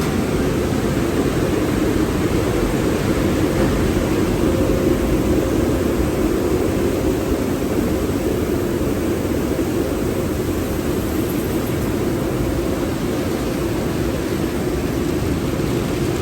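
Car wash tunnel blower dryers, an International Drying Corporation Stealth Predator system, running as a steady, loud rush of air.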